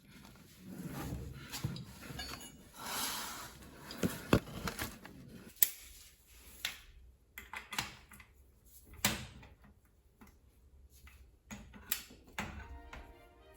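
Metal tools and motorcycle engine parts being handled during disassembly: scattered clinks, clicks and knocks at irregular intervals. Background music comes in near the end.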